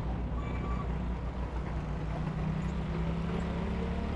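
Street traffic: a large vehicle's engine running steadily with a low hum, and one reversing beep about half a second in.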